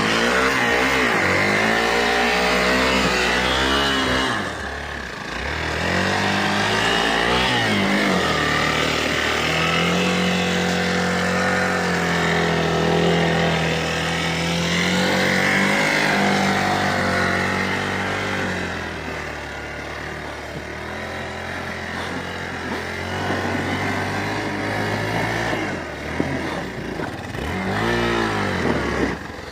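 Hero XPulse 200 4V single-cylinder motorcycle engine running while riding. Its pitch climbs and drops several times as the throttle is worked, with a long steady stretch in the middle and a quieter, lower stretch about two-thirds of the way through.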